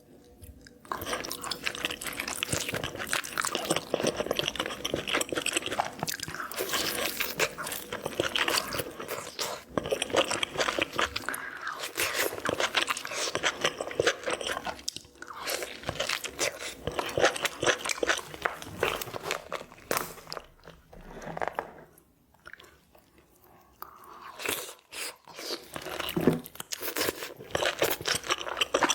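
Lobster being eaten close to the microphone: steady crunching and chewing, pausing for about three seconds about two-thirds of the way through before the crunching starts again.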